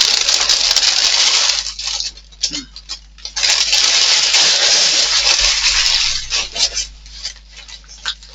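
Model kit packaging being rummaged through and shaken: two long spells of rustling and rattling with small metal parts clinking, the second from about three seconds in to about six seconds, then a few scattered light clicks.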